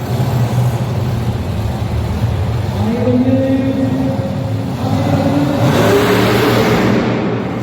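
A motor vehicle engine revving hard, its pitch climbing about three seconds in, followed by a loud broad rush of noise near the end.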